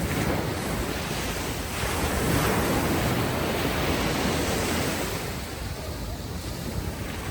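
Ocean waves washing up on a sandy beach: a wave swells to its loudest about two to four seconds in, then eases off as it washes back.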